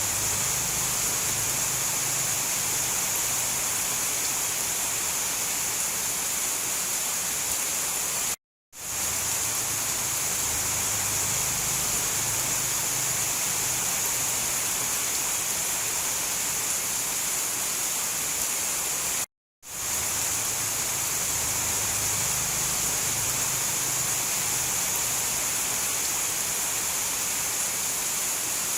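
Steady heavy rain hiss from a looped recording, dropping to silence for a split second twice, about eleven seconds apart.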